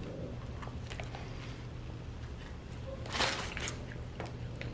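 Close-miked chewing of a mouthful of cheeseburger with shredded lettuce: small wet mouth clicks and one brief louder mouth noise about three seconds in, over a low steady hum.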